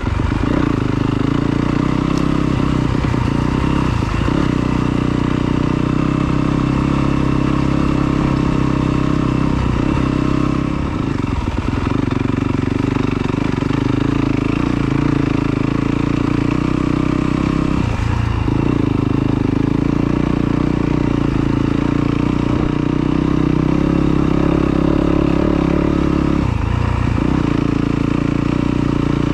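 Yamaha YZ250 two-stroke dirt bike engine running steadily under throttle, heard close up. Its note drops briefly four times as the throttle is rolled off and back on.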